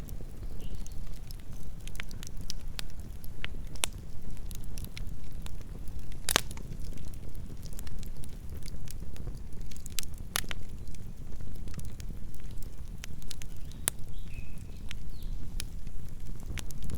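Campfire burning: a steady low rumble of flames with scattered sharp crackles and pops of burning wood, the loudest pops about six and ten seconds in.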